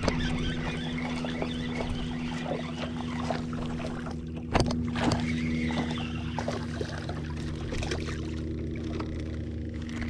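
Small boat's motor running steadily, with water noise around the hull and one sharp knock about four and a half seconds in.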